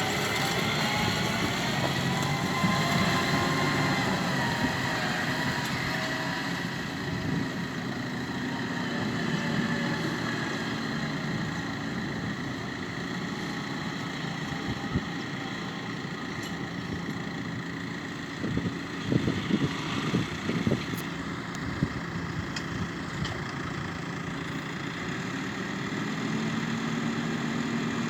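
New Holland T6 tractor engine running, its pitch shifting over the first few seconds and then settling steady. A cluster of knocks and thuds comes about two-thirds of the way through.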